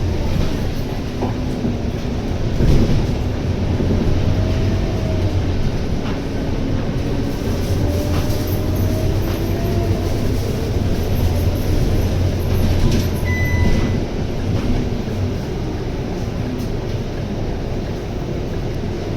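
Scania K230UB bus under way, its 9.3-litre Scania DC9 diesel and ZF automatic gearbox giving a steady low rumble with a faint whine that rises and falls as it pulls. A short electronic beep sounds about thirteen seconds in.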